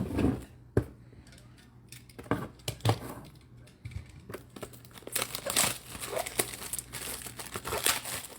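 Plastic wrapping crinkling and tearing as a card box is opened by hand. A few scattered handling clicks come first, then a dense stretch of crinkling from about five seconds in.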